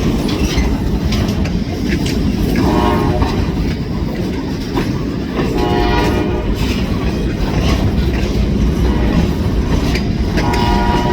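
Diesel freight train running with a heavy low rumble and wheel clicks on the rail joints, its multi-tone air horn sounding briefly about two and a half seconds in, again about six seconds in, and a longer blast beginning near the end.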